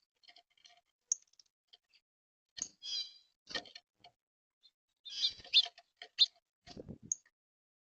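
Birds giving short, scattered chirps and clicks, the loudest a little past the middle, with a brief low thump near the end.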